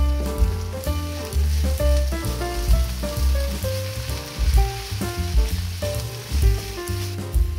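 Chives, bulgogi and kimchi sizzling in a frying pan as they are stir-fried with a wooden spatula, under background music with a steady bass line and melody.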